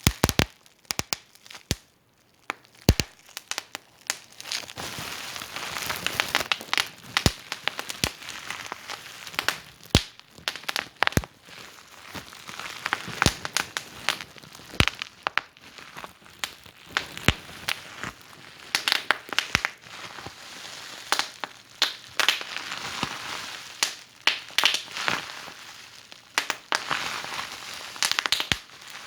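Wood fire burning in a fireplace: irregular sharp crackles and pops over a soft hiss that swells and fades.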